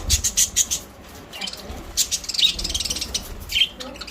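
Budgerigars chirping and chattering in quick, high-pitched bursts.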